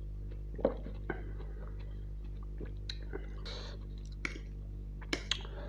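Close-miked eating sounds of Maggi noodles and chicken: wet chewing and lip smacks, with a few sharp clicks, the loudest about half a second in. Near the end the fork clicks against the plate as a forkful of noodles is lifted.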